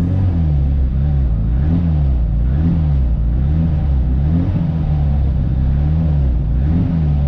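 A race-prepared 1.4-litre hatchback engine held at revs while stationary. The pitch rises and falls in regular swells about once a second as the throttle is worked, keeping the engine on the boil for the start.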